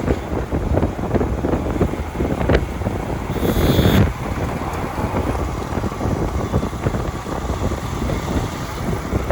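Wind buffeting the microphone on a moving motorcycle, over engine and road noise, with a brief high-pitched sound about three and a half seconds in.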